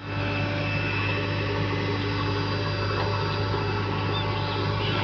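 Diesel engine of a JCB digger running steadily with an even low hum.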